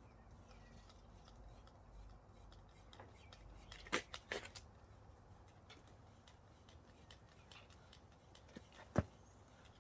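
Faint scratchy strokes of a grooming brush working through a shedding dog's coat, with a short cluster of sharp clicks about four seconds in and one louder click near the end.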